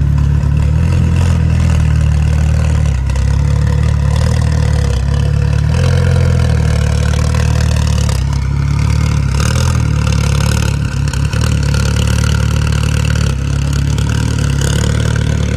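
Engine of an open-cockpit mid-engined sports car idling with a steady low note, then pulling slowly away with little change in pitch.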